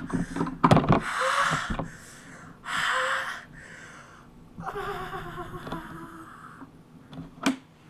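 A person's comic vocal imitation of a woman's orgasm noises: loud breathy gasps and wheezes, then a wavering, drawn-out moan of about two seconds. A short sharp click near the end.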